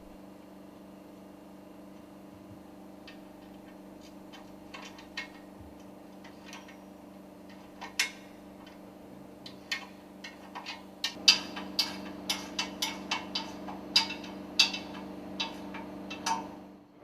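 Scattered metal clicks and light knocks, coming more often from about eleven seconds in, as a work table's parts are fitted and bolted round a piston rod, over a steady low hum.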